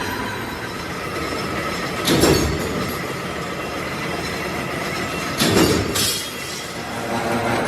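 Metalworking machinery in a wheel-rim workshop running steadily, with two louder surges of metal-on-metal noise, about two seconds in and again about five and a half seconds in.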